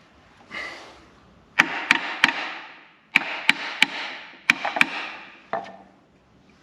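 A tapping stick striking a seized engine part to knock it loose: about eight sharp blows in three quick groups of two or three, each with a brief ring, then a lighter tap.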